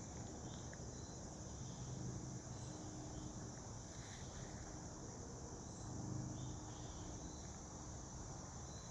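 Steady high-pitched insect trill, with faint short chirps repeating every second or so.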